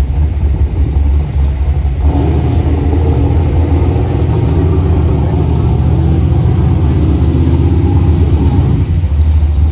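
A motor vehicle's engine running with a steady low rumble. About two seconds in, a higher engine note rises over it and fades out near the end.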